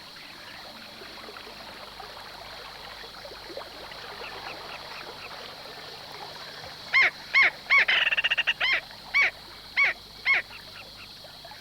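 A bird calling loudly over a steady outdoor background hiss: starting about seven seconds in, a series of sharp rising-and-falling notes with a quick rattling trill in the middle, ending about three and a half seconds later.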